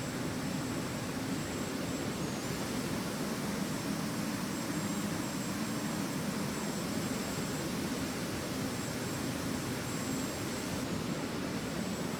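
Steady noise of a jet airliner's engines and rushing air, even and unchanging throughout, with a faint steady high-pitched whine.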